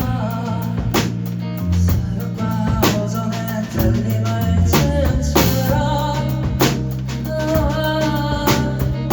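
Live band playing a song: a sung melody over acoustic guitar, a low bass line and a drum kit beating about once a second.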